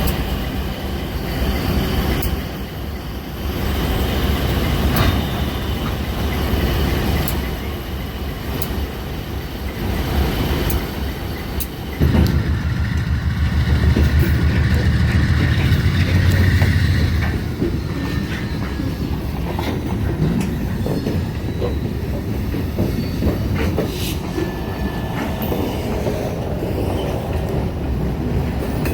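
A freight train hauled by GE B39-8E diesel locomotives is rolling along with a steady low rumble, with repeated wheel clicks on the rail and some wheel squeal. About twelve seconds in the rumble turns louder for around five seconds, then falls back.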